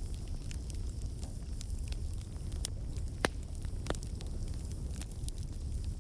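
Wood fire crackling in a fireplace: a steady low rumble of flames with irregular sharp pops and crackles, one louder pop about three seconds in.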